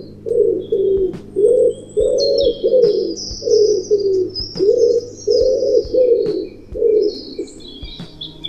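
Wood pigeon cooing in repeated phrases of low coos, with small birds chirping and twittering higher up at the same time.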